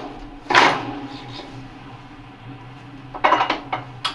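Metal fittings of a kayak and canoe ergometer clanking and clinking as its cradle is shifted back along the frame: one loud clank about half a second in, then a quick cluster of rattling clinks near the end.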